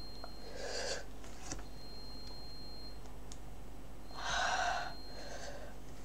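A man breathing hard and noisily through his mouth twice, the second breath longer and louder, as he copes with the burn of a freshly eaten habanero pepper.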